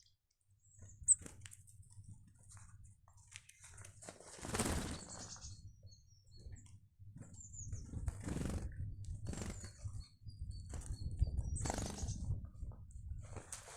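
Small garden birds giving brief high chirps, with about five short rushes of wingbeats as birds flutter in and out, the loudest about four and a half seconds in, over a faint low rumble.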